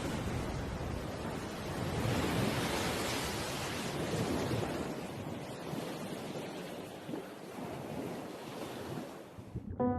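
Sea waves breaking in surf: a steady rushing wash that swells a couple of seconds in, eases off, and cuts off abruptly just before the end.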